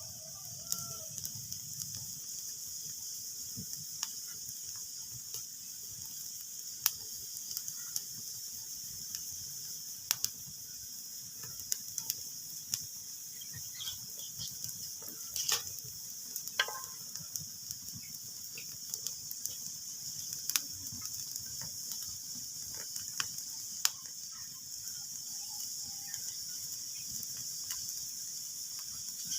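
Wood fire crackling in a fireplace: a steady hiss with scattered sharp pops and snaps, a few of them standing out louder.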